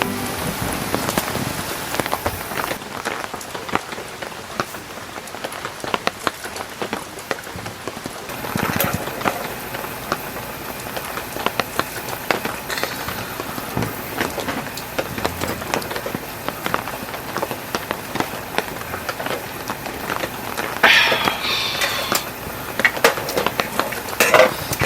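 Heavy rain falling on an inflatable air tent: an even hiss dotted with many sharp drop taps. A few brief louder sounds come about nine seconds in and twice near the end.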